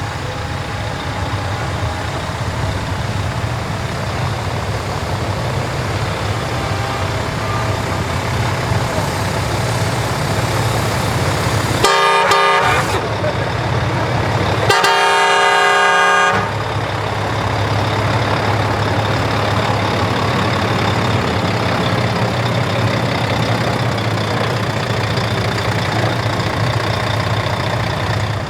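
Heavy truck engines running with a steady low rumble. About twelve seconds in, a truck horn gives a short, stuttering blast, then a longer blast of about a second and a half.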